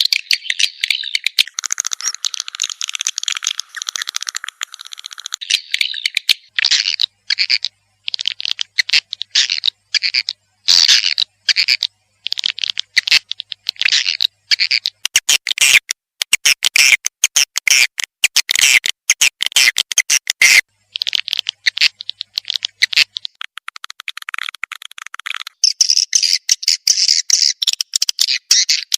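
Swiftlet calls played from a lure recording: dense high twittering that breaks about six seconds in into rapid chirps and clicking trills with short gaps, then runs on continuously again for the last few seconds.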